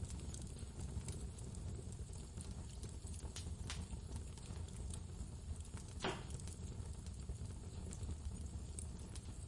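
Steady low rumble of blizzard wind, with the scattered crackles and pops of a wood fire burning in a fireplace; the sharpest pop comes about six seconds in.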